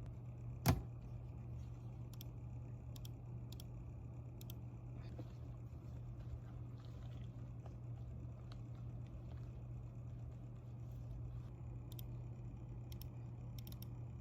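A steady low hum, with one sharp click a little under a second in and a few faint ticks scattered through.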